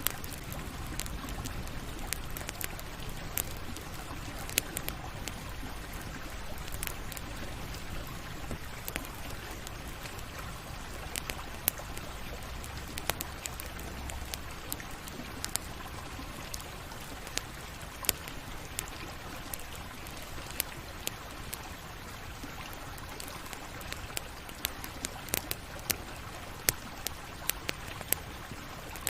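Campfire burning: a steady low hiss with irregular sharp crackles and pops from the burning wood.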